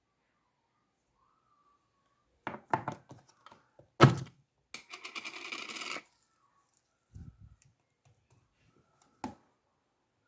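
Marbled slime being handled: sticky clicks and pops, a loud smack about four seconds in, then a little over a second of rapid crackling, then a few soft pops and one last click near the end.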